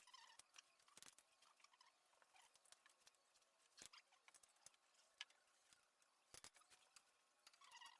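Near silence with faint, scattered small clicks and light tapping.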